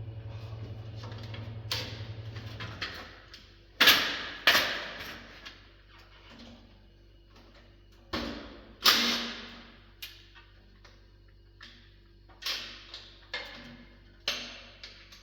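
A steady low machine hum cuts out about three seconds in. After it comes a string of sharp metal clanks and knocks, each ringing briefly, as the sheet-metal cover over the belt tensioner of a Pullmax nibbler is worked off.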